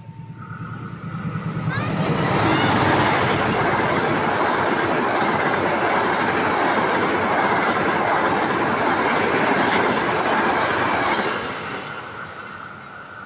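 A passenger train passing close by on the track, with its wheels running loudly over the rails. The sound swells over the first two seconds, holds steady, and fades away after about eleven seconds.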